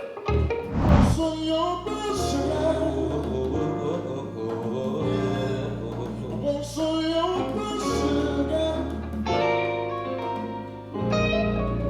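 Live Latin trio music: guitar with sustained bass notes underneath and a voice singing, with a sharp hit about a second in.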